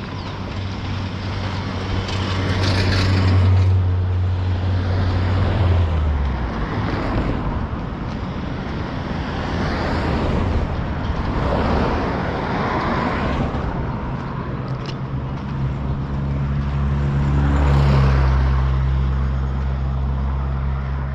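Road traffic: several cars passing one after another, each swelling and fading, with a low engine hum in the first few seconds and again from about fifteen seconds in.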